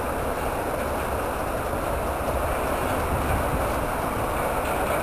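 Coal cars of a freight train rolling past: a steady rumble of steel wheels on rails.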